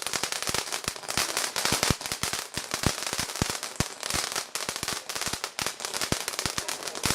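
Fireworks going off in a rapid, uneven string of sharp cracks and small bangs, many a second.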